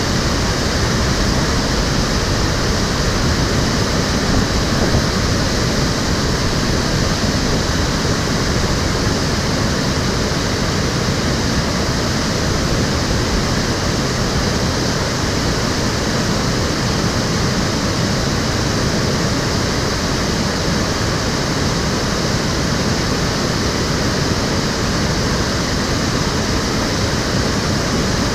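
Stream water rushing and splashing steadily over its channel.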